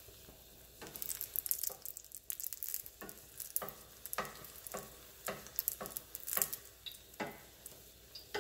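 Egg-battered chile rellenos frying in about half an inch of oil in a stainless steel skillet, sizzling and crackling, while a wooden spatula nudges them and knocks against the pan about eight times.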